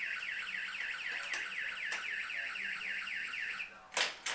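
Battery-powered toy's electronic siren: a quick falling chirp repeated about six times a second, stopping near the end. Then two sharp knocks.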